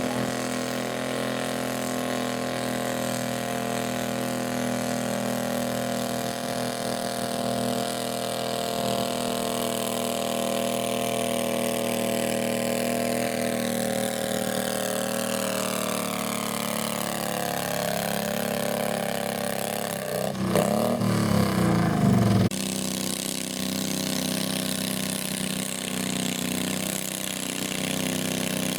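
Garden tractor engine running steadily. About twenty seconds in there is a louder, rougher stretch of a couple of seconds that cuts off abruptly.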